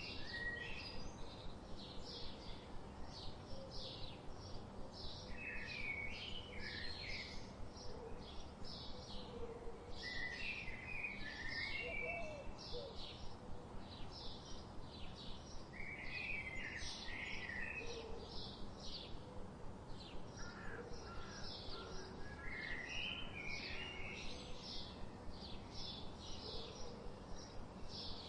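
Birds chirping, with quick short notes repeating about three times a second and a brief, more tangled call phrase every five seconds or so, over a steady low background hiss.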